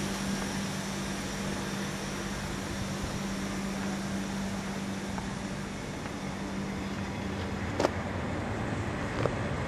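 SNCF passenger train passing at close range: a steady rolling noise with a low, even hum that stops near the end, followed by two brief knocks.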